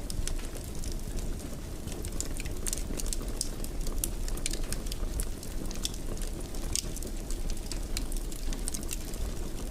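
Wood fire crackling in a fireplace: a steady low rumble of flame with frequent, irregular sharp pops and snaps.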